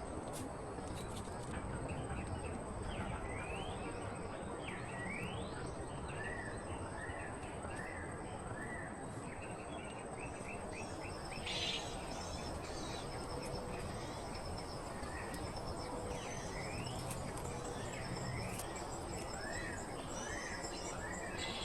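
Tropical forest ambience: a steady high-pitched insect drone, with series of short chirping calls repeated about twice a second and some quick rising sweeps, over a constant hiss.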